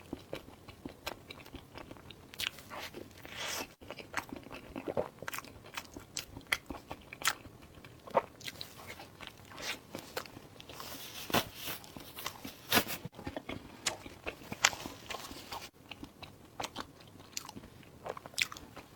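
Close-miked eating: bites and chewing with many short, crisp crunches at an irregular pace.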